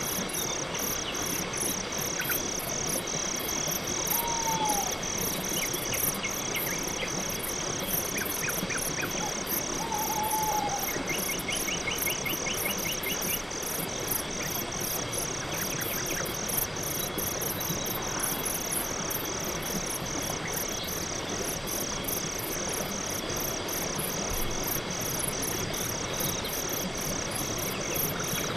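Night-time crickets chirping in an even, unbroken pulse of a few chirps a second, over a steady background hiss, with a few brief faint trills and short whistled calls from other night animals in the first half.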